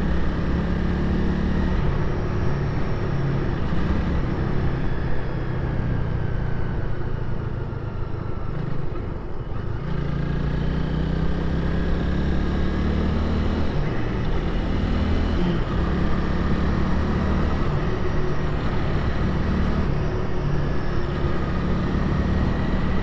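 Honda Rebel 300's single-cylinder engine running as the bike is ridden, easing off about eight seconds in and pulling again from about ten seconds, over a steady rush of wind.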